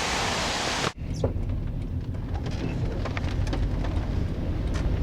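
A steady hiss that cuts off abruptly about a second in, then rain falling, with scattered drops ticking over a low rumble.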